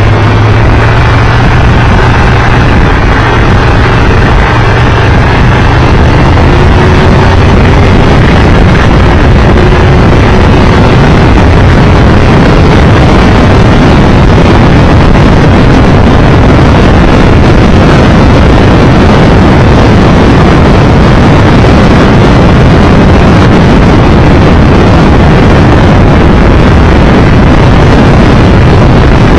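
Triumph Tiger Explorer 1200's three-cylinder engine running at road speed, largely buried under loud wind rush on the microphone. The engine's steady hum stands out more in the first few seconds before the wind noise takes over.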